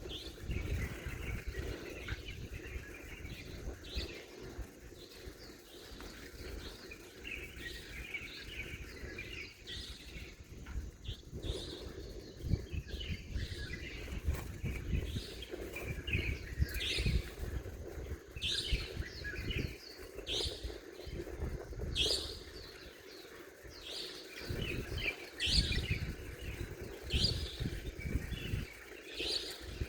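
Small birds chirping and calling, many short high chirps that come thicker and louder in the second half, over a low rumble.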